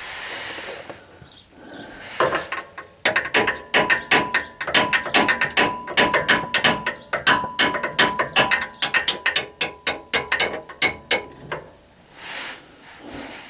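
Hand ratchet wrench clicking in quick, uneven runs of several clicks a second as a transmission bolt is turned in, starting about two seconds in and stopping near the end.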